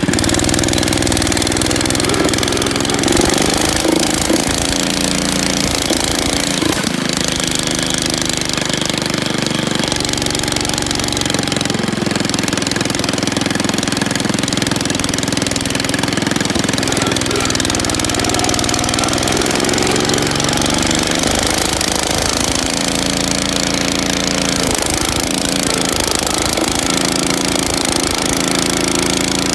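Freshly rebuilt Ford engine idling steadily.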